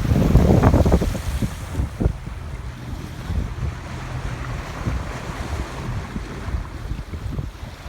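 Wind buffeting the microphone over the steady rush of water around a moving boat. The buffeting is heaviest in the first second or so, then settles into a steady rush with an occasional low thump.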